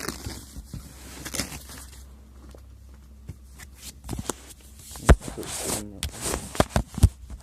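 Parcel wrapping rustling and being handled, with several sharp knocks and bumps, the loudest about five seconds in and again about seven seconds in.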